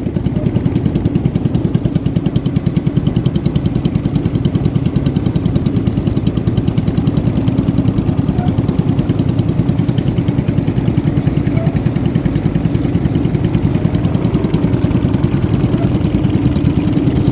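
Racing boat's engine running steadily under way, a fast, even pulsing exhaust note with a faint whine of water and wind above it.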